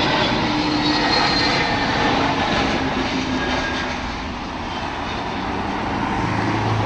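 Jet engines of an Airbus A350 airliner running, a steady rushing noise with faint whining tones that shift slowly in pitch, easing off a little midway.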